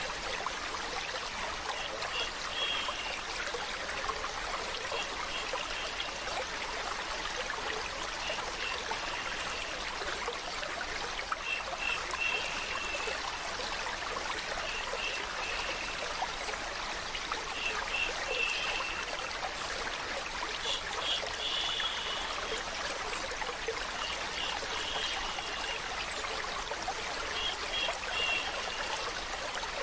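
Steady flowing, trickling stream water, played as a continuous white-noise-like hiss for lulling a baby to sleep, with short high tinkling notes every couple of seconds.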